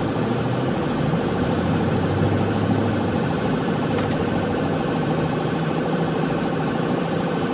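Patrol car driving at speed, its engine and road noise heard steadily from inside the cabin.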